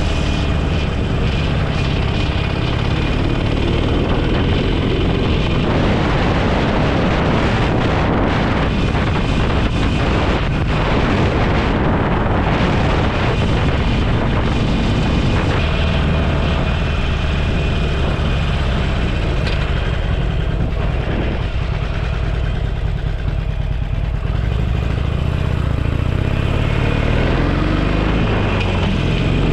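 Motorcycle engine running while riding, under a steady rush of wind and road noise; the engine note changes pitch a few times as the speed changes.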